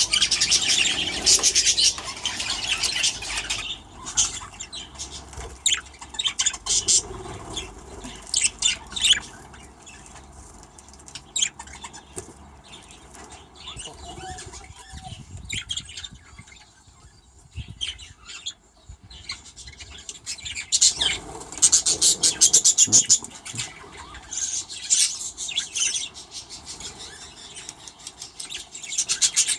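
Budgies chirping and chattering in quick, high bursts. The chatter is busiest near the start and again through the last third, and thins out in the middle.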